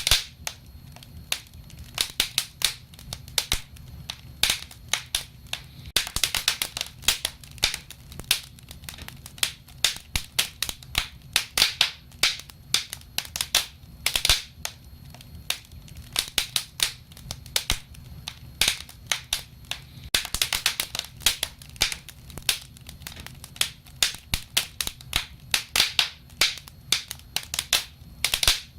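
Burning wood fire crackling: irregular sharp pops and snaps, some in quick clusters, over a steady low rumble.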